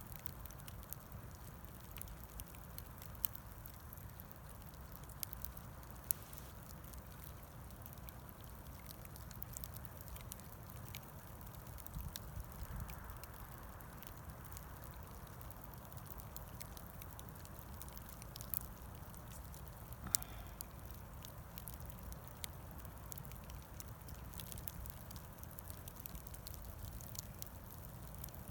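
Bonfire of scrap wood crackling, with irregular sharp pops, a handful of them louder than the rest.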